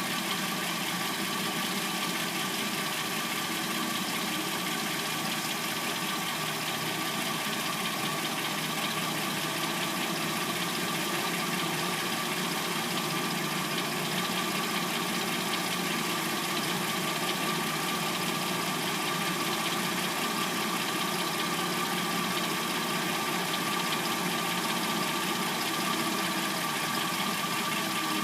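Hyundai Sonata replacement engine idling steadily once warmed up, with the little clackety noise that the owner takes for the timing chain.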